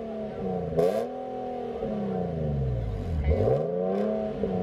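Car engine revved repeatedly, its pitch climbing and falling back about every two and a half seconds, with a short sharp pop near the top of two of the revs.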